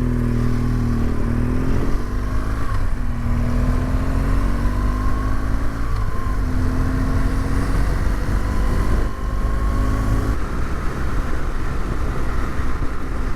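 Motorcycle engine accelerating. Its pitch climbs and drops back at each upshift, about three and six seconds in, then it settles to a steady cruise for the last few seconds.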